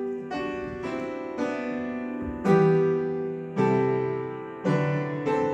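Slow keyboard music: sustained chords struck about once a second, each fading before the next.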